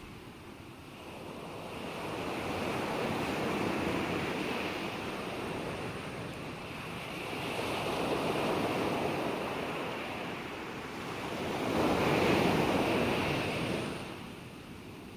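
Ocean waves breaking and washing in, three swells of surf rising and falling, the loudest about twelve seconds in.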